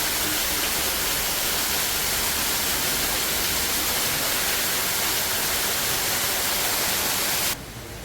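Steady, loud rushing noise with no pitch or rhythm, strongest in the upper range, cutting off abruptly near the end.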